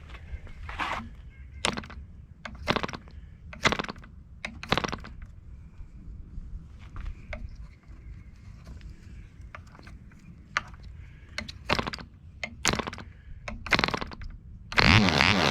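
Webra 1.5 cc model diesel engine being flipped by hand: a string of short sharp pops, roughly one a second with a pause in the middle. Near the end it catches and runs loudly and steadily.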